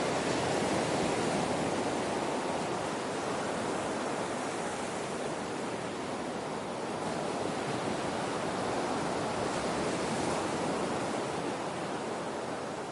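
Ocean waves breaking and washing on a shore, a continuous surf rush that swells gently and eases.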